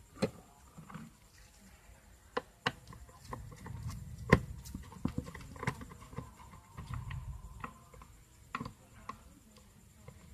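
Irregular clicks and light knocks of tools and small metal parts being handled while an electric clothes iron is taken apart, the nuts inside it being removed; one sharper knock a little past four seconds in.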